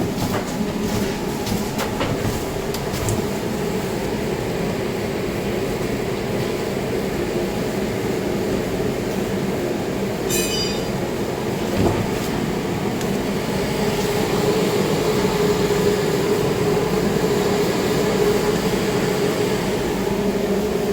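A steady mechanical drone with a constant hum running under it. About halfway through comes a brief run of rapid, high-pitched clicks.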